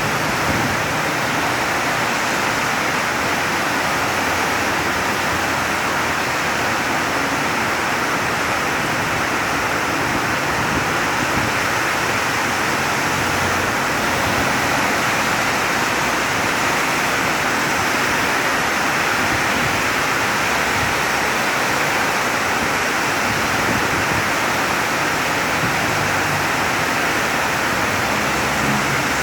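Very heavy rain pouring down: a steady, dense hiss that does not let up.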